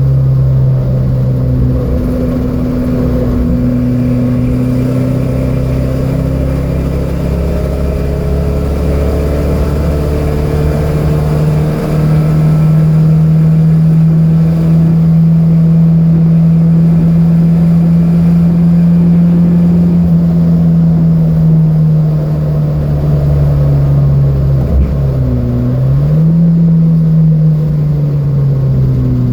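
Datsun B210's four-cylinder engine heard onboard, pulling steadily under load at lap pace. Its pitch climbs partway through, drops sharply near the end as the driver lifts or shifts, then climbs again.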